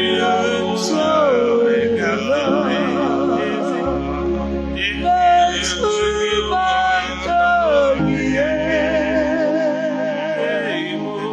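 Worship music: a solo voice singing long, sliding notes with a wide vibrato over keyboard and sustained bass notes.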